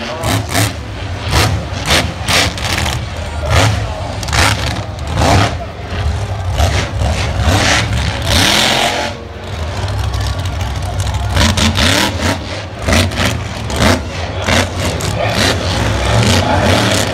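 Monster truck engine revving hard in repeated throttle bursts, loud and rough.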